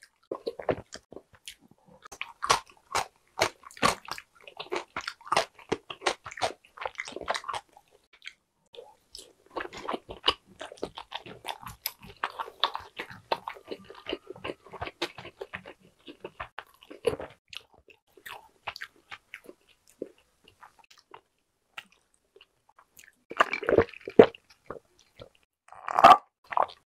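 Close-miked crunchy chewing of a pickle slice, with dense crisp crunches that thin out after about two-thirds of the way. Near the end come a couple of sips through a drinking straw.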